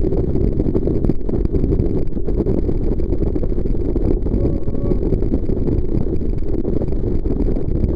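Jet boat underway, heard from on board: a steady, loud low noise of engine, rushing water and wind.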